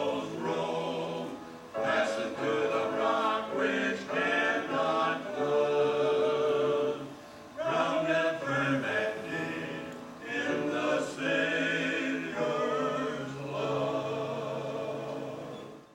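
A choir singing a hymn in held, sustained notes over a steady low bass line.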